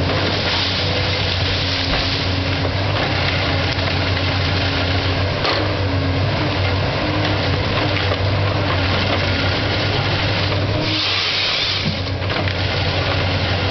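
Diesel engine and hydraulics of a Komatsu PC228 forestry harvester running steadily under work, a low hum with shifting pitch above it. A short hiss comes near the end.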